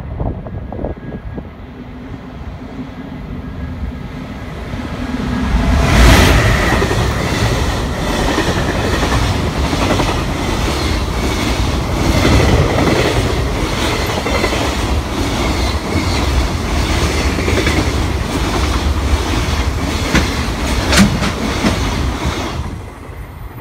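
EF510 electric locomotive hauling a container freight train through at speed. It approaches with a rising hum, passes with a loud rush about six seconds in, and then its wagons go by with a steady rhythmic clickety-clack of wheels over the rails. The sound drops away suddenly near the end as the last wagon passes.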